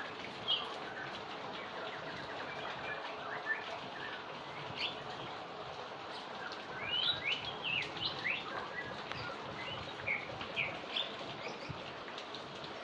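Small birds chirping in short, scattered calls over the steady hiss of heavy rain.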